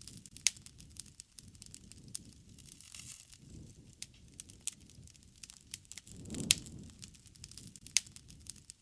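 Campfire crackling: irregular sharp pops and snaps of burning wood over a low rush of flame that swells and fades, with the loudest pops about half a second in and twice in the last third.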